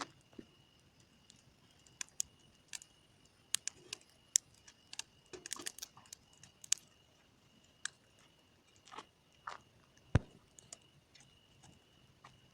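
Bonfire crackling: irregular sharp pops and snaps, thickest about five to seven seconds in, with one loud pop about ten seconds in.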